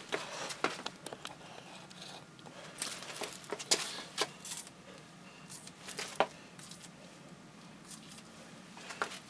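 Scattered light metallic clinks and clicks at irregular intervals, from small metal parts such as bolts or tools being handled.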